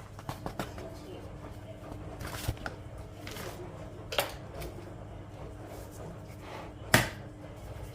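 Kitchen food-preparation sounds: scattered knocks and clicks of utensils on a work surface, with one sharp knock about seven seconds in.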